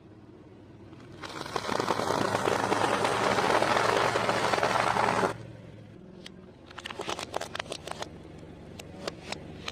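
Close-miked eating sounds: a loud, dense crackling and crinkling for about four seconds, then scattered sharp crunches and clicks.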